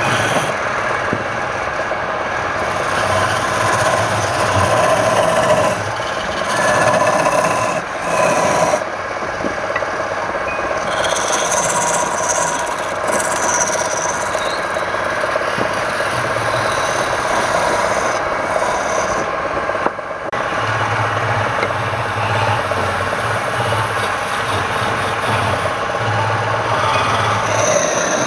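Wood lathe running while a tool scrapes against the spinning wood, giving a steady rasping sound over the motor's low hum, with brief letups about 6, 8 and 20 seconds in.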